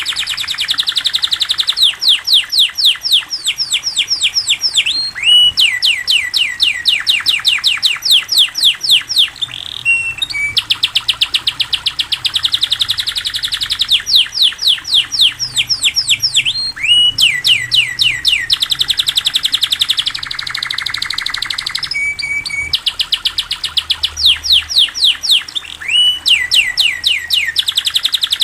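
Domestic canary singing a long, continuous song of fast trills, each phrase a rapid run of repeated downward-sweeping notes, switching to a new phrase every couple of seconds with only brief breaks.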